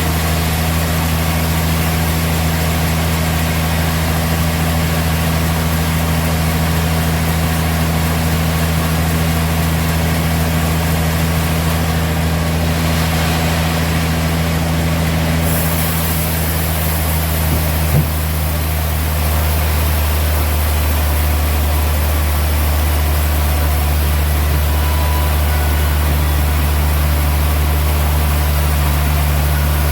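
Sawmill machinery running with a steady low hum, with one short knock about 18 seconds in.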